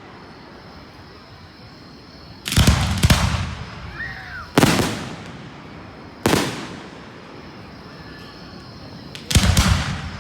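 Aerial fireworks shells bursting: a quick cluster of booms about two and a half seconds in, single booms about four and a half and six seconds in, and another cluster near the end, each dying away in a trailing echo.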